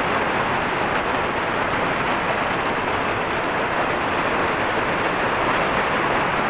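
Heavy tropical downpour: rain falling hard and steadily.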